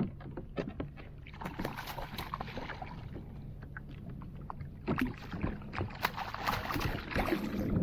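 Scattered clicks, knocks and water sounds aboard a fishing kayak while a foul-hooked salmon is brought in. The knocks come thickest about five seconds in and again near the end.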